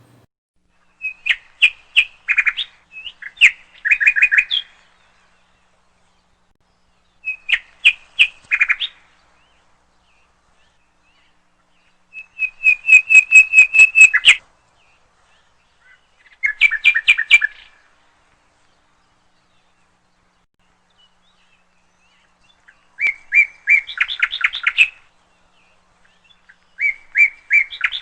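A songbird singing in short phrases of rapid, repeated chirps, about seven phrases with silent gaps between them.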